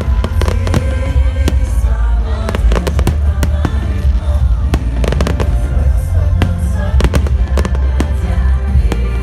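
Fireworks going off in quick succession, many sharp bangs and crackles, over loud music with heavy bass.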